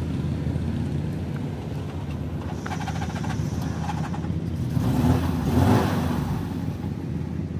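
A car engine idling steadily, with a run of small clicks and rustles about three seconds in and a brief swell of noise around the five-second mark as someone climbs into the open car with a bag.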